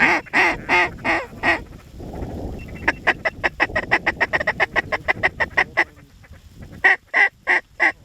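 Goose honking in quick runs of short calls: a few spaced honks at the start, a fast run of about six a second in the middle, and a louder run of about three a second near the end.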